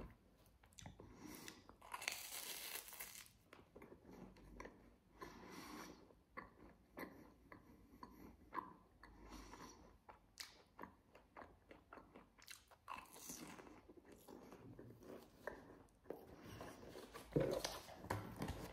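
A person chewing and crunching a crisp Japanese snack: irregular small crunches, with a louder burst of crunching about two seconds in.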